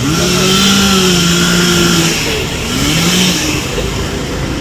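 A small petrol engine revving up and holding for about two seconds, then dropping, with a shorter second rev about three seconds in.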